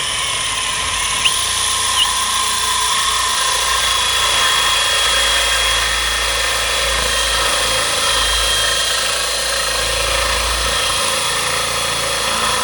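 Angle grinder with a diamond blade spinning up and running steadily at high speed, its whine dipping briefly twice as it takes load early on, then shutting off just after.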